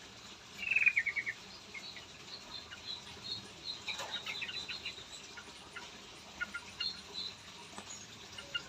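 Small caged songbirds chirping: a quick run of about eight chirps about a second in, then scattered short chirps and calls, with one sharp click near the middle.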